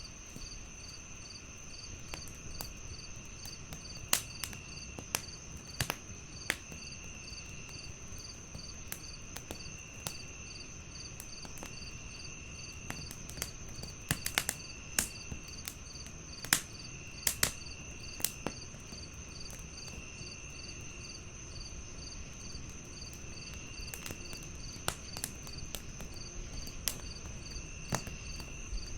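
Crickets chirping in several overlapping calls: a high continuous trill, rapid pulsed chirps, and short trills repeating every couple of seconds. Over them a wood fire crackles with irregular sharp pops, most of them in the middle of the stretch.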